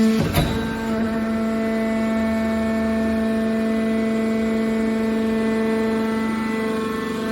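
Hydraulic metal baler running with a steady hum from its motor and hydraulic pump, with one clank just after the start.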